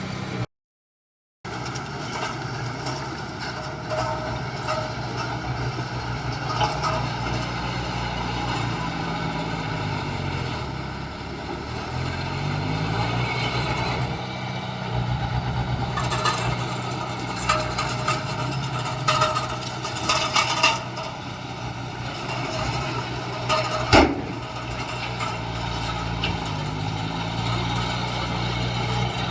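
Heavy diesel engine of a construction machine running, its pitch dropping and then climbing again in the middle and once more near the end. Metal clanks come in the second half, with one sharp knock loudest of all. The sound cuts out completely for about a second near the start.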